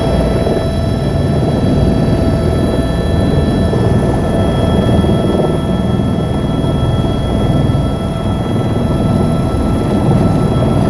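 Helicopter in flight running steadily: a low, pulsing rotor thrum under several steady high turbine whine tones.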